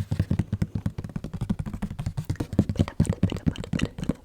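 Fast, irregular fingertip tapping on an object, about eight dull taps a second with some sharper clicks mixed in.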